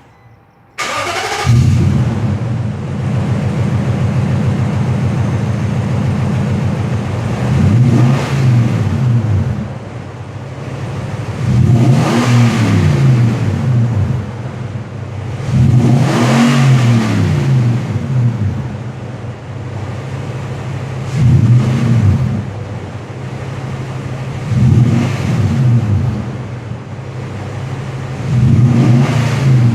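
2010 Nissan Titan's 5.6-litre V8 starting about a second in, then idling through its exhaust. It is revved six times, each rev climbing and falling back to idle, roughly every four seconds.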